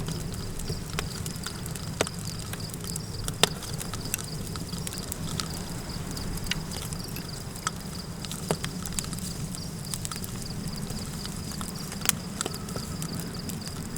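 Campfire crackling with a few sharp pops, the loudest about three seconds in, over a steady low wind rumble and a continuous high insect trill.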